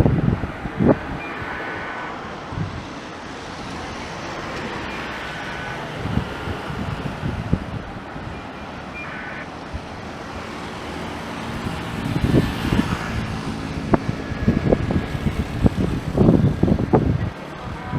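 Steady distant roar of a jet airliner on approach, growing louder over the last few seconds, with wind buffeting the microphone in gusts.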